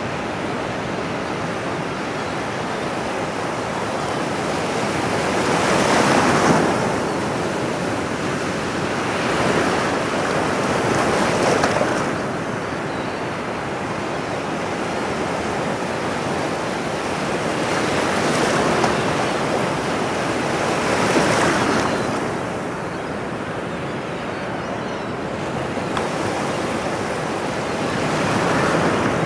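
Ocean surf: a steady wash of breaking waves that swells every few seconds as each wave comes in, about six times.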